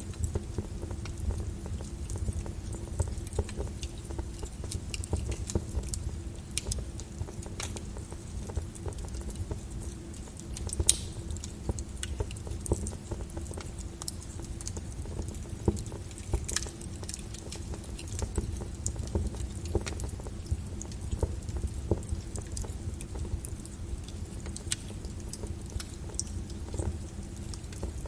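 Wood fire crackling with irregular sharp pops and snaps over a steady low rumble and hiss of rain.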